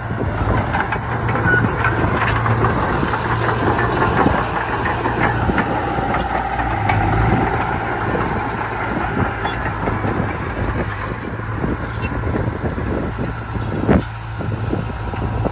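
Heavy diesel earthmoving machinery running steadily under load, with scattered knocks and clanks and one sharp bang near the end.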